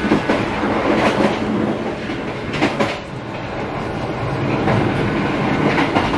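Passenger train carriage running, a steady rumble and rattle heard from inside the car, with a few knocks about a second in and near the middle.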